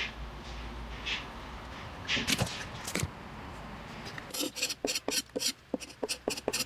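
Hand-worked strokes on a wooden tabletop: hissy rubbing or scraping strokes about once a second, two louder strokes a little past two seconds in, then from about four seconds in a quick run of short scratching strokes, about four a second.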